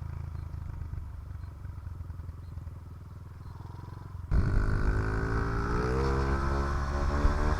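Honda CRF50F's small single-cylinder four-stroke engine running at low revs. A little past halfway it turns abruptly louder, and its pitch rises steadily as the bike accelerates.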